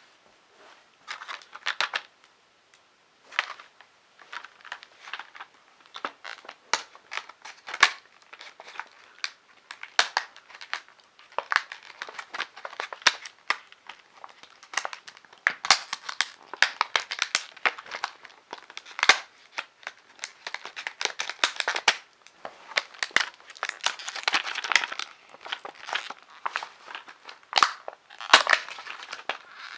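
Packaging crinkling, crackling and tearing as it is handled and opened by hand, in a dense run of irregular crackles and clicks.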